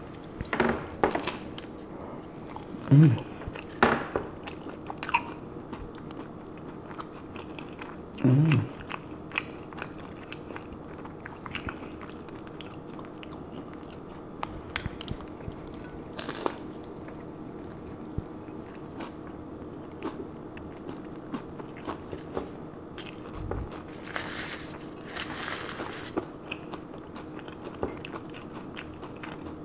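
Crisp corn hard-shell taco being bitten and chewed close to the microphone: irregular crunches and small crackling clicks, busiest in the first few seconds, over a faint steady hum.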